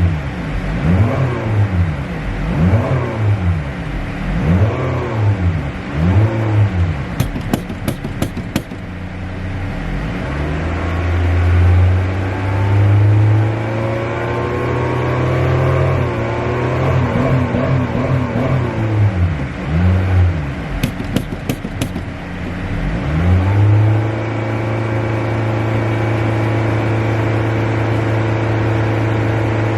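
Car engine being revved in quick blips about once a second, then held at higher revs for a few seconds, blipped again, and settling into a steady idle near the end. Two short runs of sharp clicks sound among the revs.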